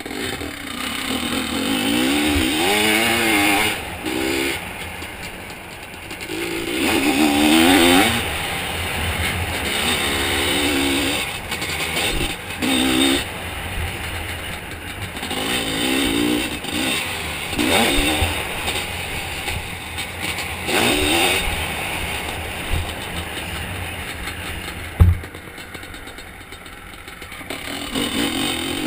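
Zabel 700 two-stroke sidecar-cross engine revving hard and backing off again and again, the pitch climbing and dropping every second or two. About 25 seconds in there is one sharp knock.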